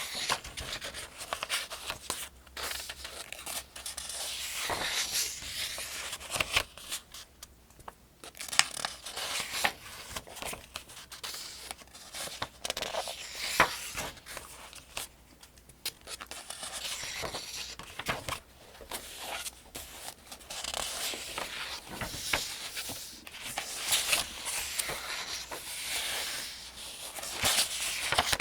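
Paper pages of the 2025 Farmers' Almanac being turned and handled: steady rustling and crinkling with sharp little crackles. There are short lulls about seven and fifteen seconds in.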